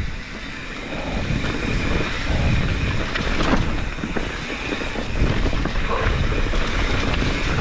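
Wind buffeting the microphone over the rumble of mountain bike tyres rolling down a rocky trail, with scattered clicks and knocks from the bike rattling over the rocks.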